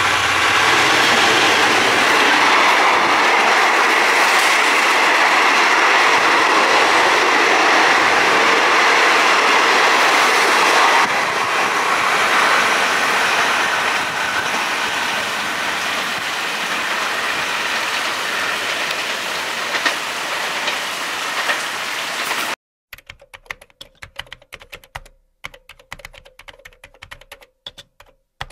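Diesel-hauled passenger train running through a station without stopping: a loud, steady rumble and rattle of wheels on rails as the carriages pass, easing a little after about eleven seconds. About 23 seconds in it cuts off suddenly to rapid clicks of typing on a computer keyboard.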